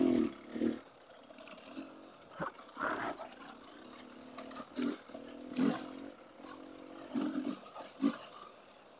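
Off-road motorcycle engine under the rider, the throttle opened and shut in about eight short bursts, each swelling up and dropping back, over steady trail noise.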